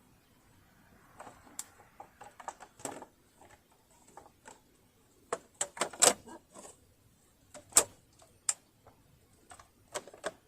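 Irregular small clicks, clinks and taps from hands and tools working on a home sewing machine's metal parts during disassembly and oiling, with the loudest knocks about six and eight seconds in.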